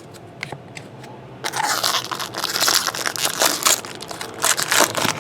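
Trading-card pack wrapper crinkling and crackling as it is handled and torn open, starting about a second and a half in and going on in quick, uneven crackles.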